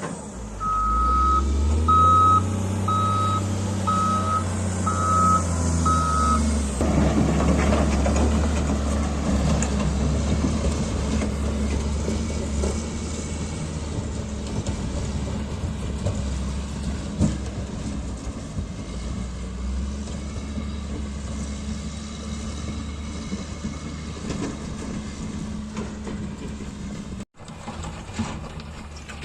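A heavy diesel machine reversing with its backup alarm beeping six times, about once a second, then the alarm stops while the engine keeps running under load.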